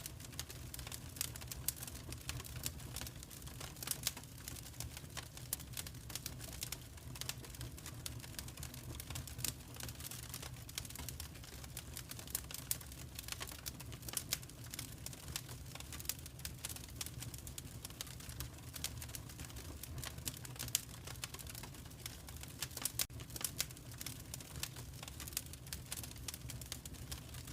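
Wood fire crackling in a fireplace, with dense, irregular sharp snaps and pops over a steady low rumble.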